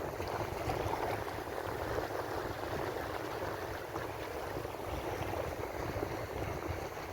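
Ocean waves washing on a shore, a steady rushing wash with no distinct breaker.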